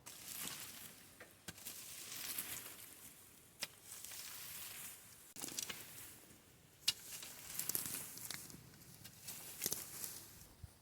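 Faint irregular rustling and crackling, with a few sharp clicks.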